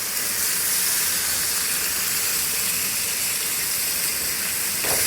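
Wagyu beef filets sizzling steadily in a hot oiled pan, freshly flipped seared side up.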